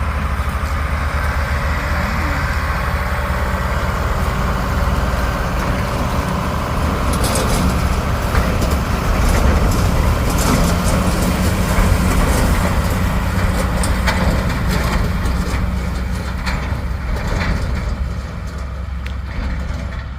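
Heavy harvest machinery engine running steadily with a low drone, with rattling and crackling joining in from about seven seconds in and easing off near the end.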